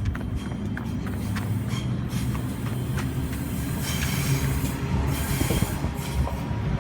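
Electric suburban train at the station platform: a steady low hum, with a thin high whine coming in about four seconds in.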